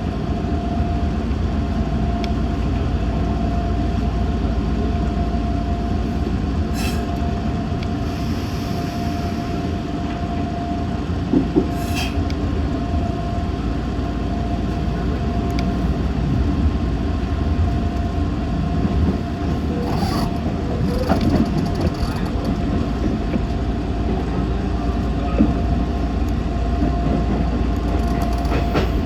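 Meitetsu 6500 series electric train running at speed, heard from inside the car: a steady low rumble with a thin constant hum above it. A few sharp clacks come from the wheels over rail joints or points.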